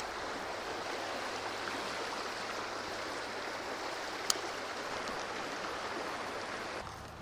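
River water rushing steadily over a shallow stretch, with one sharp click about four seconds in; the rush eases slightly near the end.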